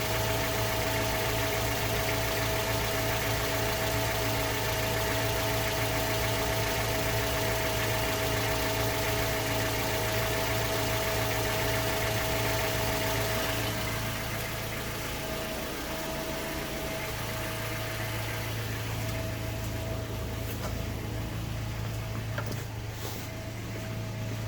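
Mazda 3 2.0 MZR DISI four-cylinder direct-injection engine idling after a cold start, with injector ticking and a metallic knock, which the owner takes for piston slap or a worn rod bearing. The sound gets quieter about fourteen seconds in, and a few sharp clicks come near the end.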